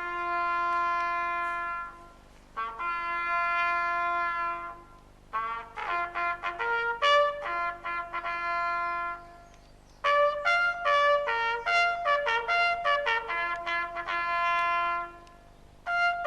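A solo brass instrument playing a slow ceremonial call. It opens with two long held notes, then moves into phrases of shorter notes that climb and fall in pitch, with a short pause about halfway through.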